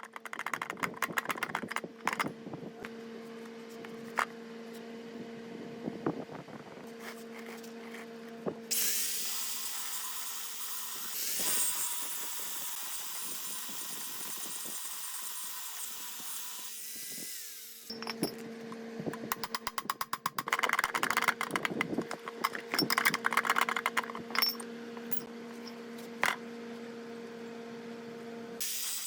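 A power tool's motor runs with a steady hum, and rapid rattling and scraping come and go against the work. A loud, even hissing grind runs from about nine seconds in to about eighteen seconds, then the rattling resumes.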